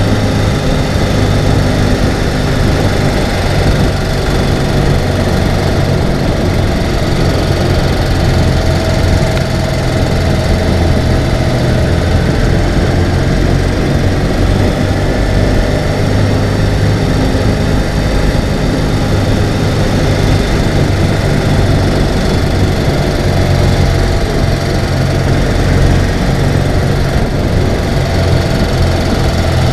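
Ural sidecar motorcycle's flat-twin engine running steadily, at a fairly even pitch throughout.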